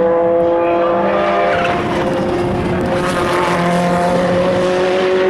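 Endurance race cars running at speed, their engines holding steady high-revving notes that drift slowly in pitch, with a louder rushing pass about two to three seconds in.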